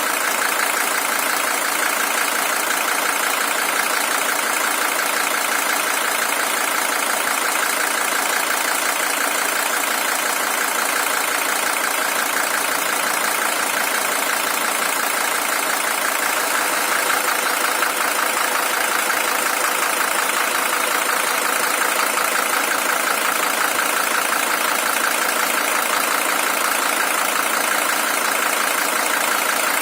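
Mercedes-Benz W123 300TD's OM617 five-cylinder diesel engine idling steadily; a high-mileage original engine at 620,000 km.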